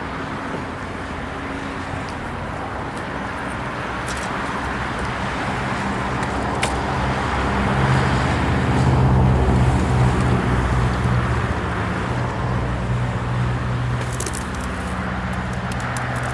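A motor running steadily with a low hum; it swells to its loudest a little past the middle, then eases off slightly.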